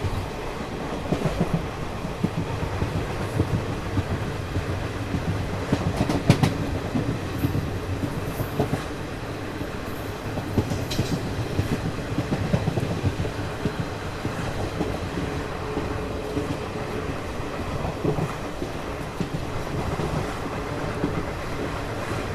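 Garib Rath Express running at speed, heard from on board: a steady rumble of the coaches' wheels on the rails, with irregular clicks and knocks from the track and one sharper knock about six seconds in.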